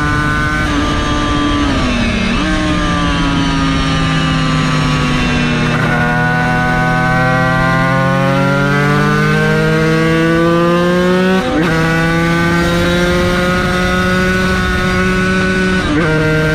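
Yamaha TZ250 two-stroke racing engine under way. Its pitch drops about two seconds in, climbs steadily as it revs through a gear, falls abruptly at a gear change, holds steady, and changes again near the end.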